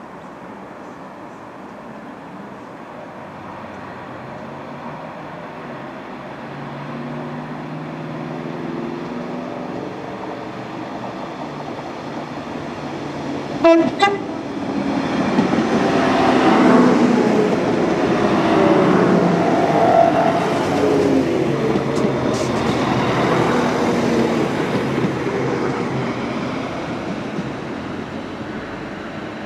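West Midlands Railway Class 196 diesel multiple unit approaching and passing, its engine and wheel noise building up, then easing off. About halfway through it gives one short horn toot.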